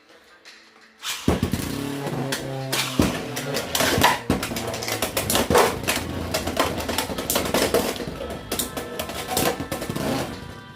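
Beyblade X spinning tops clashing in a plastic stadium: about a second in, a dense, irregular run of sharp clacks and knocks begins over a spinning whir, and goes on until near the end.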